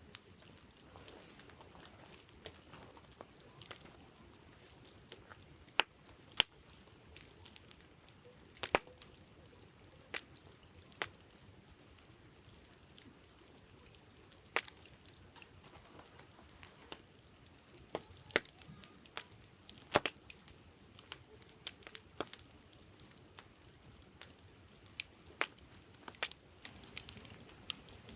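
Wood campfire crackling: scattered sharp pops and snaps at irregular intervals, a few much louder than the rest, over a faint steady hiss.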